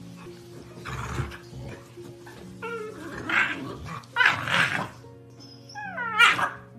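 Pit bulls play-growling in several short bursts while wrestling, an adult dog with a puppy, over steady background music.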